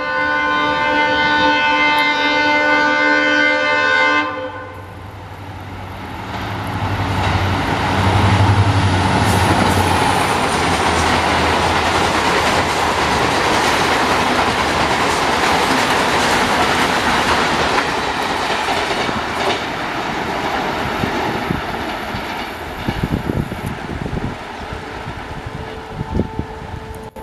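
Indian Railways EMD diesel locomotive sounding its multi-note horn for about four seconds, then the locomotive and its long rake of milk tank wagons rushing past, wheels clattering over the rail joints. Near the end the noise thins to scattered wheel clicks as the last wagons go by.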